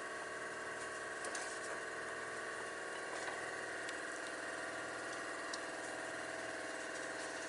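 Steady hum of a running motor, with a few faint clicks and knocks from hands working the belts off the pulley.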